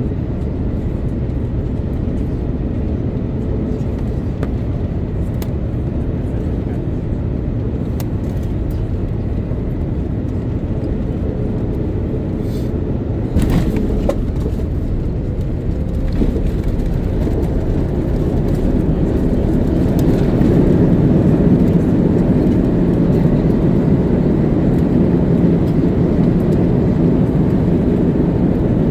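Cabin noise inside an Airbus A330-900neo during landing: a steady low rumble of the Rolls-Royce Trent 7000 engines and airflow. A sharp knock comes about halfway through, and the rumble then grows louder.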